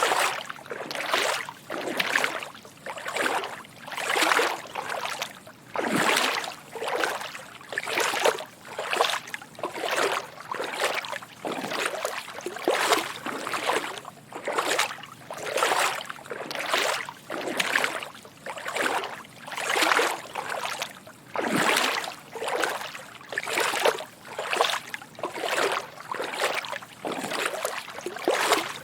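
Footsteps wading through shallow water, a steady walking rhythm of soft sloshing splashes, a little under two steps a second.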